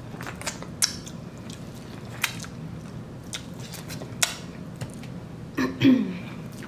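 Close-miked eating of seafood: chewing with a few sharp clicks or cracks spread through, and a short voiced "mm"-like sound with a falling pitch near the end.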